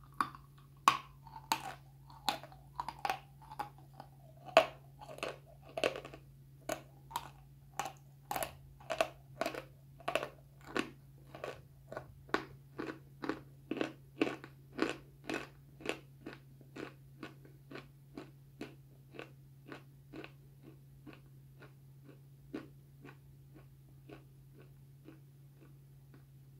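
Close-miked chewing of dry, chalky white lumps: crisp crunches at a steady pace of about two a second. The crunches are loudest in the first few seconds and grow gradually quieter as the piece is ground down.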